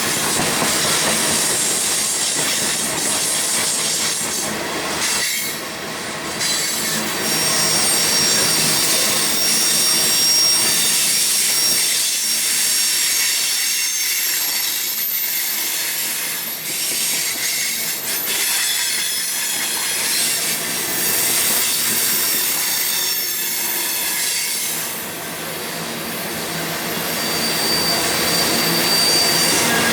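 Railroad cars rolling past steadily, with thin, high-pitched wheel squeal coming and going over the rolling noise. A single sharp clack sounds about five seconds in.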